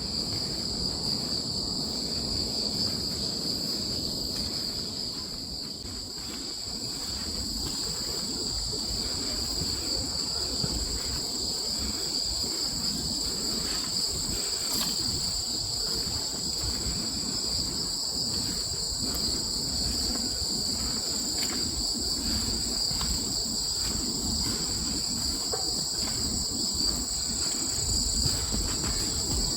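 Crickets singing in a steady, continuous high-pitched trill, over a low background rumble.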